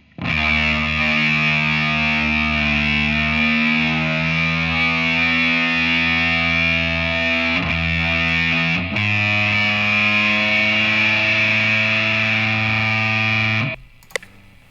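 Ibanez semi-hollow-body electric guitar played through heavy distortion. A long sustained chord rings out, changes to a second held chord about nine seconds in, and is cut off suddenly near the end.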